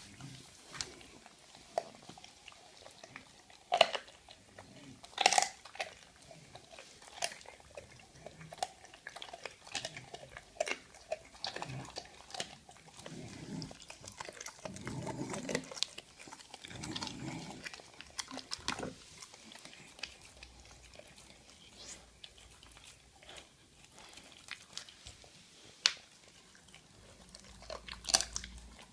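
American Staffordshire terrier chewing and crunching a bird, with irregular sharp cracks among the chewing; the loudest cracks come a few seconds in and again near the end.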